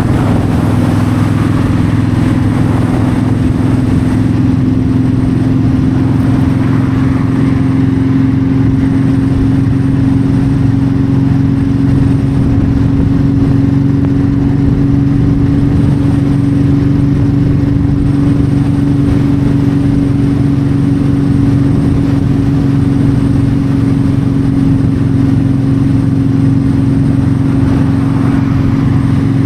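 Yamaha V-Star 1300's V-twin engine running at a steady pitch while cruising on the highway, with road and wind noise mixed in.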